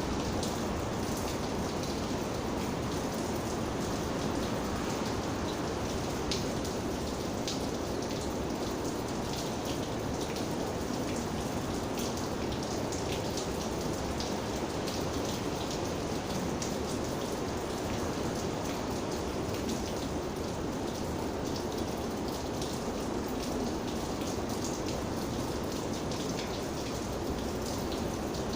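Steady rain falling, with many individual raindrops ticking sharply on a surface close by.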